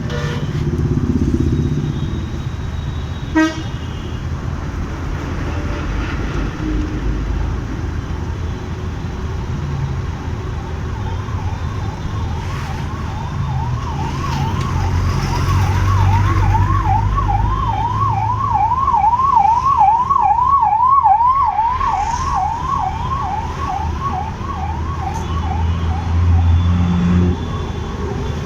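Emergency vehicle siren wailing in fast up-and-down sweeps, about two a second. It comes in about ten seconds in, is loudest past the middle and fades out near the end, over a steady rumble of road traffic and motorbike. A short horn beep sounds a few seconds in.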